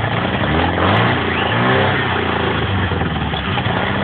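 MGB's freshly rebuilt 1.8-litre B-series four-cylinder engine running, revved up twice in the first two seconds and then settling back to a steady idle.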